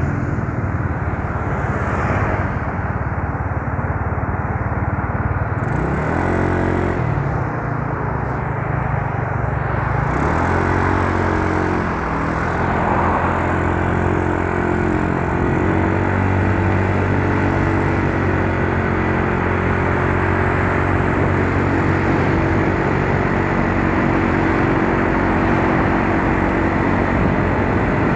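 Yamaha Mio Soul scooter's small single-cylinder engine running under way, its pitch dipping and rising around six and ten seconds in as the throttle changes, under a steady rush of wind and road noise.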